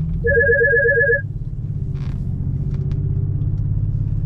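Phone ringtone: a rapid trill of short pulses on two tones lasting about a second, over the steady low drone of an Infiniti G37's muffler-deleted VQ V6 running.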